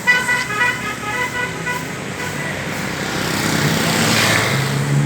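Vehicle horn sounding in a quick series of short beeps, then a vehicle passing close by, its engine getting louder near the end.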